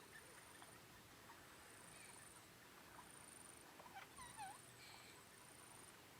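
Near silence with faint wildlife calls: a thin, high note repeating about once a second, and a few short downward-sliding calls about four seconds in.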